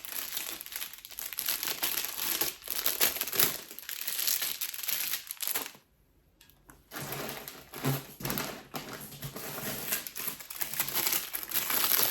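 Packaging crinkling and rustling as items are handled and unwrapped. There is a break of about a second just before halfway, then the crinkling picks up again.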